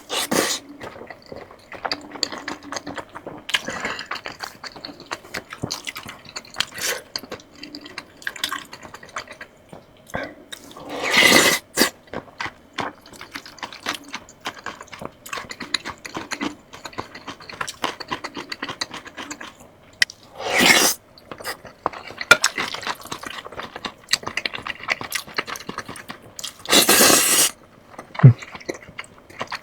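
Close-miked eating sounds: noodles in soup slurped loudly three times, with wet chewing and mouth smacks in between.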